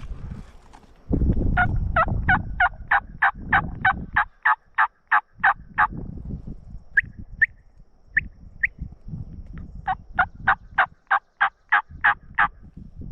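Turkey-type yelps in two long runs of about four notes a second, with a few single notes between the runs, over low rustling and movement noise.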